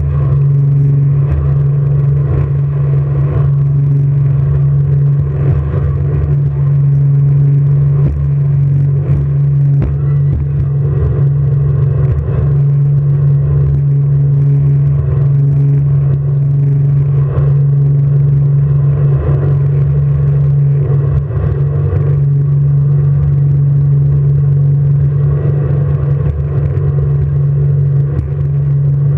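Jet boat engine running steadily at speed, a loud constant low drone with rushing noise over it.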